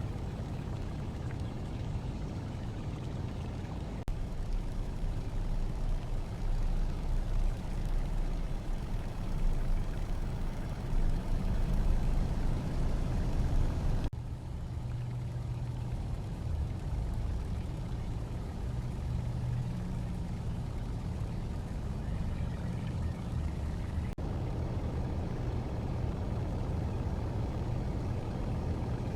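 Aircraft engine drone: a steady low rumble. It grows louder about 4 seconds in and changes abruptly about 14 and 24 seconds in, as one engine sound gives way to another.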